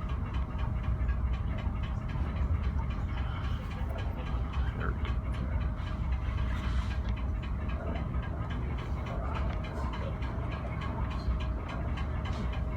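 Storm wind buffeting the microphone over the steady low drone of a ferry crossing rough water, with a faint steady hum. A brief hiss rises and falls about six and a half seconds in.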